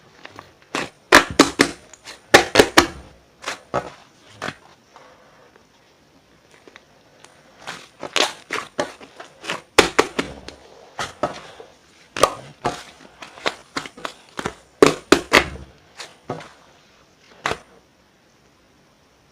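Sticky whipped-cream-textured slime being squeezed and pressed by hand, giving clusters of sharp pops and clicks with short pauses between.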